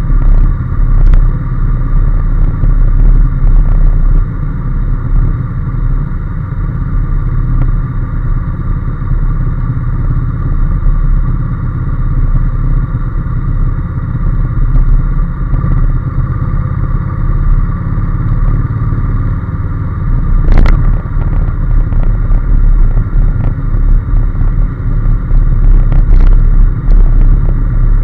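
Honda NC750S motorcycle's parallel-twin engine running steadily under way, with a loud, fluctuating low rumble throughout. A single sharp click sounds about two-thirds of the way through.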